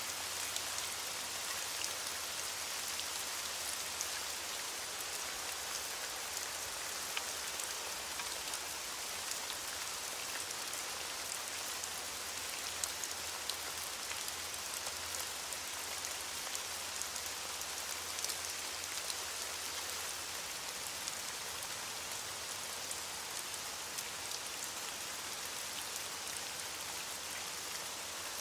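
Steady heavy rain falling, an even hiss with many individual drops ticking sharply on a hard surface.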